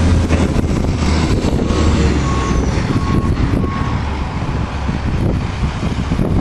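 A heavy vehicle's engine running steadily, with a reversing alarm beeping four times about two seconds in.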